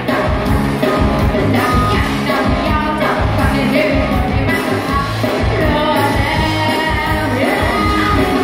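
Live band music with a singer over an amplified PA: a steady drum and bass beat under a sung melody, with a room echo.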